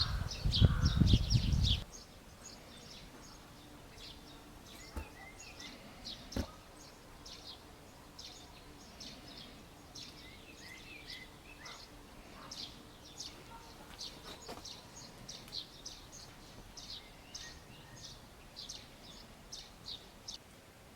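Small birds chirping and twittering in short, high calls scattered throughout. There is a low rumble in the first two seconds.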